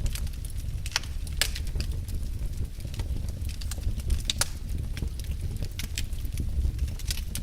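Wood fire burning in a fireplace: a steady low rumble of the flames with irregular sharp crackles and pops, the strongest about a second and a half and four and a half seconds in.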